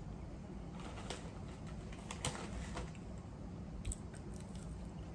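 A few faint, scattered crunches of Ruffles potato chips being chewed, over a low steady hum.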